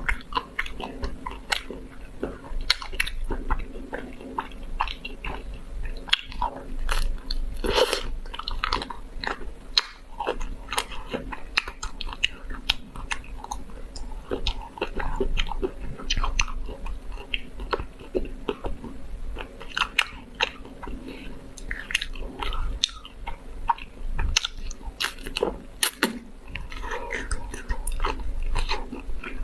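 Close-miked eating of chocolate ice cream: repeated bites with many sharp crackles, and wet chewing in between.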